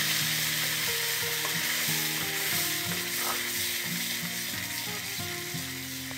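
Ground papaya paste sizzling in hot ghee in a pan, stirred with a wooden spatula; the sizzle slowly fades.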